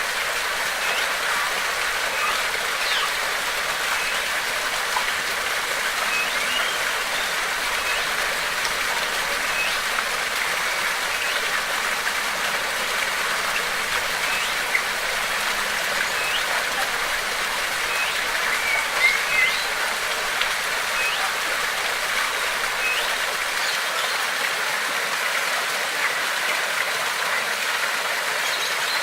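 Steady rush of running water, with short bird chirps scattered throughout.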